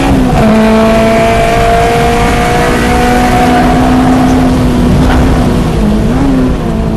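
Honda S2000's stock F22C inline-four engine running hard on track. Its pitch drops sharply once just after the start, then holds nearly steady with a slow rise, with a brief wobble near the end.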